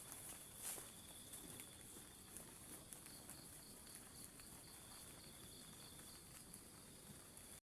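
Faint forest insects chirping: a steady high trill with a pulsing chirp repeating about three times a second, and a few soft clicks. The sound cuts off abruptly near the end.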